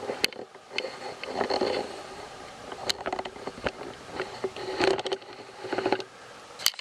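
Handling noises: sharp clicks, knocks and short bursts of quick rattling ticks, as small objects are picked up, moved and set down.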